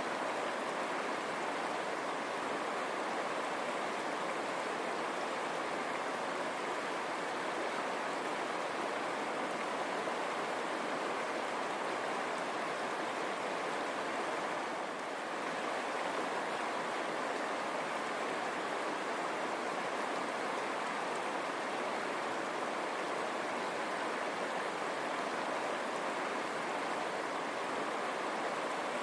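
River water running over stones, a steady rushing babble.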